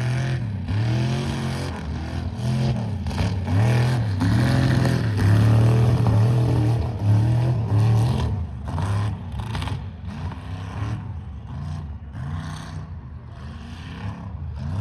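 Mega truck engine revving hard up and down in repeated surges, loudest in the middle, then settling to a lower, steadier run in the last few seconds.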